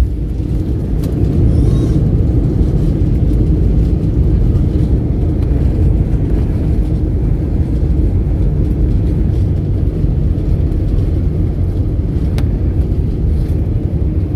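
Steady low rumble of a Boeing 737 airliner heard from inside the cabin during landing: engine and airflow noise.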